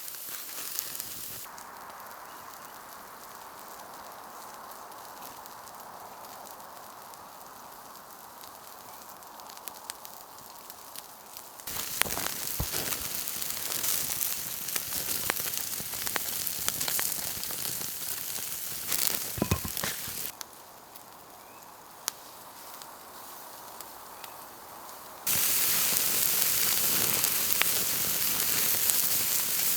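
Campfire crackling and popping, with food sizzling over it. It comes in several cut shots that change loudness abruptly, and a loud, even sizzle takes over near the end.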